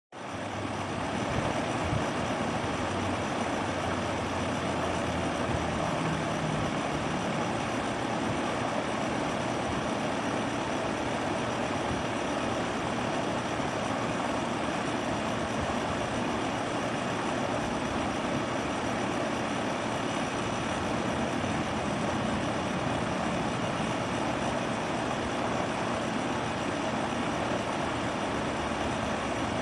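SmartComfort heat pump running steadily, a constant fan-and-compressor rush with a low buzzing hum that is strongest in the first several seconds. The buzz is the unwanted noise the unit makes every minute or so, which the owner wants fixed.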